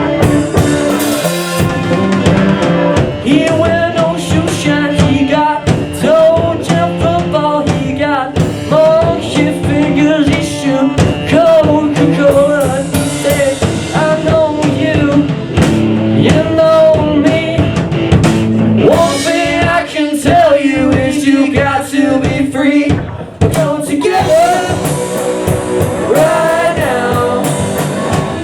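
Live rock band playing a blues-rock number: drum kit and bass under a wavering lead melody.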